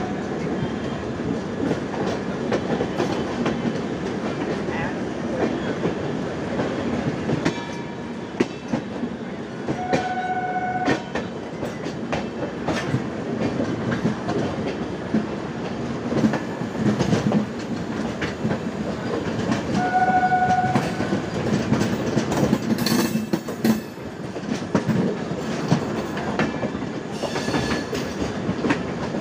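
Two trains running side by side on adjacent tracks: a steady rumble with the clickety-clack of wheels over rail joints, heard close up from an open coach door. A short horn-like tone sounds twice, about ten seconds apart.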